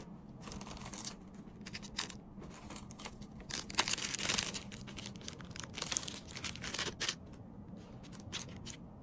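Plastic packaging crinkling, with small clicks and taps as small items are handled, busiest around the middle.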